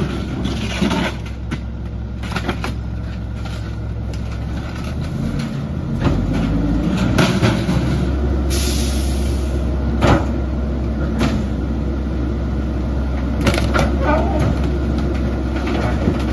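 Garbage truck engine running with a steady low rumble that grows louder about six seconds in, a short burst of air hiss a little after eight seconds, and several sharp knocks.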